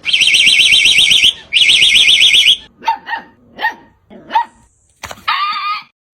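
A rapidly warbling electronic alarm sounds twice, about a second each. A dog then barks four times and ends with one longer drawn-out cry.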